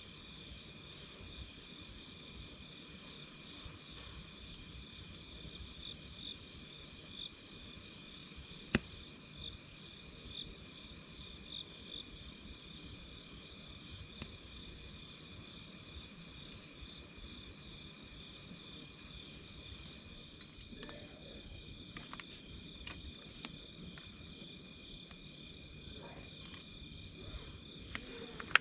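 Crickets chirring steadily with a pulsing high trill, over a wood fire crackling with scattered sharp pops: one loud pop about nine seconds in, and more frequent crackles near the end.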